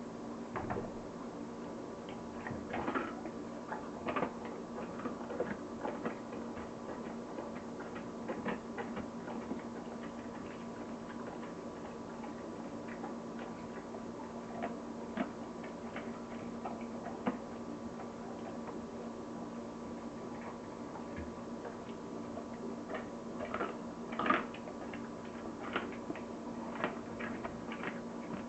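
Dog chewing raw chicken quarters, with irregular crunches and clicks as the bones break, over a steady hum.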